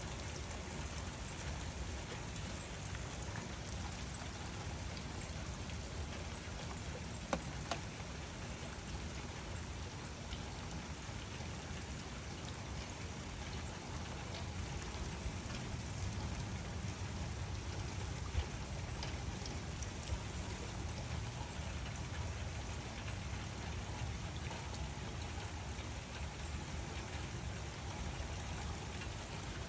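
Steady rain falling, an even hiss with individual drops ticking close by now and then.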